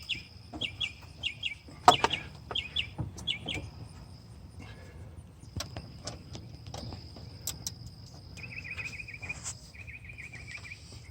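Birds chirping in quick repeated groups, over a steady high insect whine, with fast insect trills later on. Scattered sharp metal clicks come from hand-tool work on the alternator bolts, the loudest about two seconds in.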